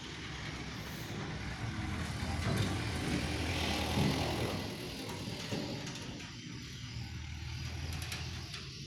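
A motor vehicle passing on a dry dirt road: a steady engine hum with tyre and road noise that grows loudest about three to four seconds in, then fades.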